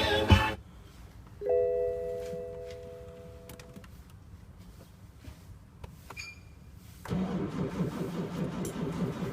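BMW E60 530d's M57N six-cylinder diesel cold-starting at -15°: a dashboard warning chime of several held tones sounds for about two seconds, a few light clicks follow, then about seven seconds in the engine fires and settles into a loud, steady run. The owner blames the hard cold start on bad glow plugs.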